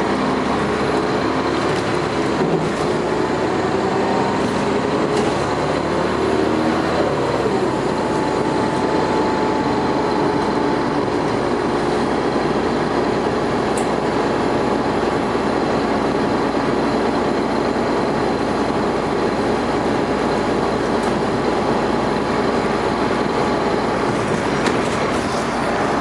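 Dennis Arrow double-decker bus under way, heard from on board: the diesel engine and ZF automatic driveline running under load. The engine note shifts over the first several seconds, then settles into a steady run with road noise.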